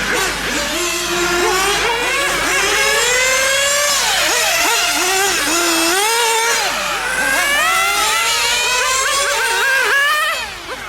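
Small nitro engines of 1/8-scale RC GT cars revving, their high-pitched whine rising and falling again and again, with more than one engine heard at once.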